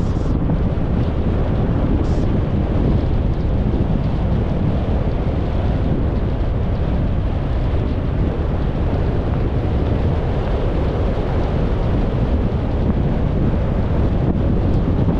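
Steady road and wind noise from a car driving, a constant low rumble with wind buffeting the microphone and no distinct events.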